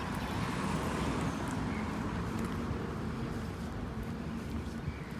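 City street ambience: a steady wash of traffic noise with a few faint clicks.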